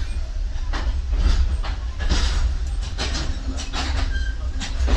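A Sri Lanka Railways passenger train running along the line, heard from inside its own carriage doorway: a steady low rumble with an irregular clatter and clank of wheels over the rail joints, and a few brief faint squeaks.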